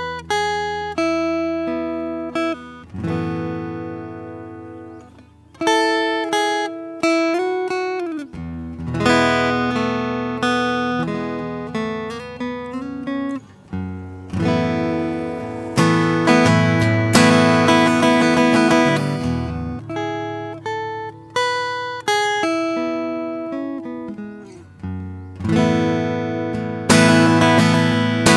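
Solo acoustic guitar played slowly, single plucked notes and chords left to ring, with fuller strummed chords in the second half and again near the end.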